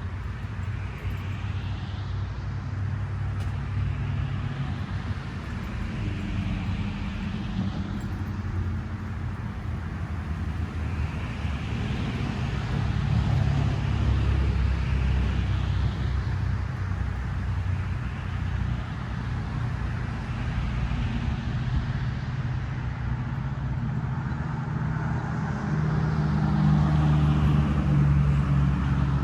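A motor vehicle running: a steady low engine rumble with road noise, swelling a little twice.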